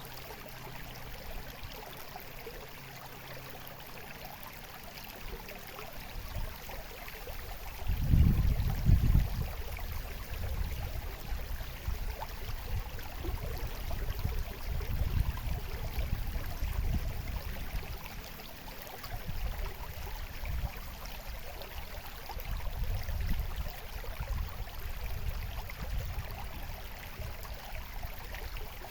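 Water trickling and babbling steadily in a shallow stream. Uneven low rumbles come and go under it from about six seconds in, loudest around eight seconds.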